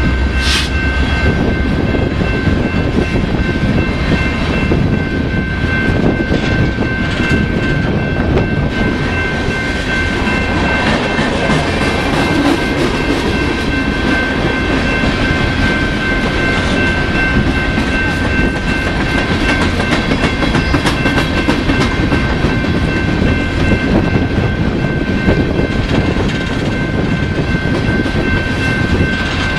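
A train rolling past on the rails, a continuous rumble with rapid wheel clicks over the rail joints. A steady high-pitched tone holds over it throughout.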